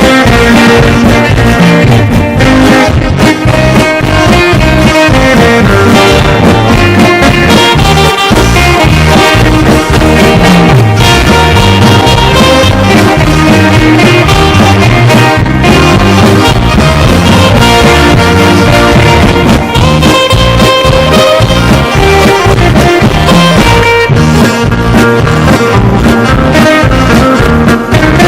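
Live band music in E-flat: saxophone melody over electronic keyboard, guitar and drum kit, playing loud and steady.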